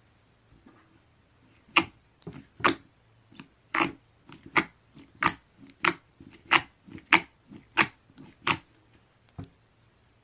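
Slime being pressed and squeezed by hand, giving a series of sharp pops and clicks about every two-thirds of a second as air pockets burst.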